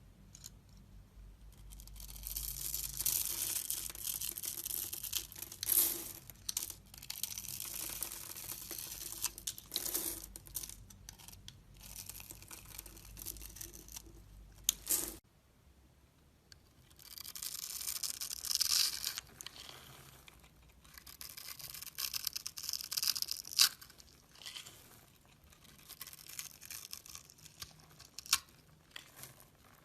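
A blade carving and scraping a bar of soap: crisp shaving and crumbling sounds in uneven bursts with sharp little clicks. The sound changes abruptly about halfway through, as a new carving begins.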